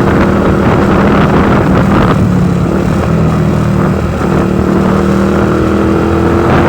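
Motorcycle engine running steadily under way, picked up by a phone in a vibrating handlebar holder, with a rush of wind noise. The engine note eases briefly about two seconds in and again about four seconds in.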